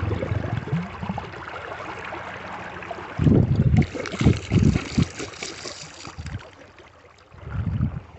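Creek water running, with sloshing and gurgling as a glass cream-top milk bottle is rinsed and emptied in the current. There are heavier surges of sloshing in the middle and again near the end.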